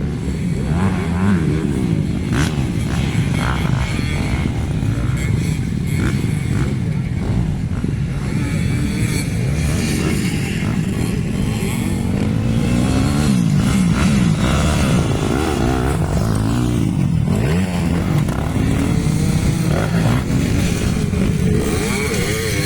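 Several motocross bikes racing, their engines revving up and down as they accelerate and shift, with overlapping rising and falling engine notes.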